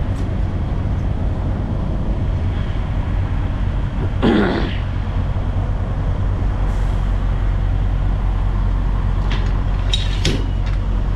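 Diesel engine running steadily with a low drone. A short falling squeak comes about four seconds in, and a few sharp clicks near the end.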